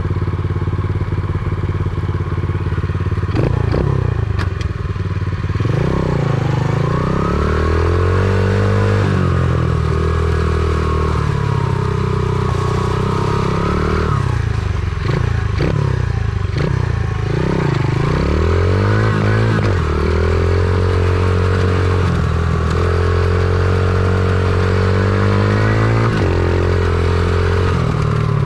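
Stomp pit bike's small single-cylinder four-stroke engine being ridden hard, its pitch climbing and dropping back over and over as the throttle is opened and shut through the turns and gears.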